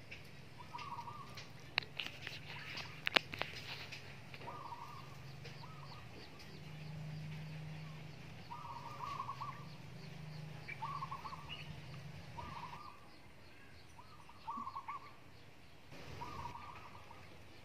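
A bird calling repeatedly: about ten short trilled calls, a second or several apart. Under them runs a low steady hum that stops about two-thirds of the way in, and two sharp clicks in the first few seconds are the loudest sounds.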